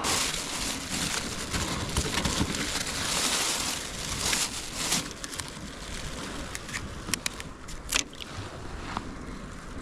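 Wind and water noise around a kayak on open salt water, louder in the first half, with a few sharp clicks or knocks in the second half.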